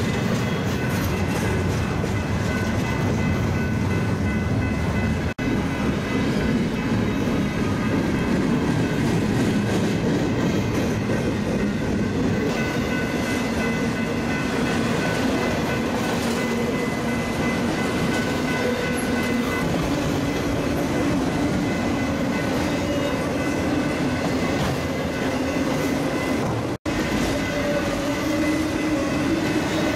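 Freight train passing close by, double-stack container well cars followed by autorack cars: a steady, loud rumble and rattle of steel wheels on the rail. The sound cuts out for an instant twice, about five seconds in and near the end.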